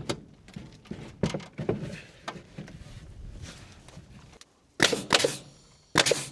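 Light knocks and clicks of hands-on work in a small shed, then two short, loud rasping sounds near the end.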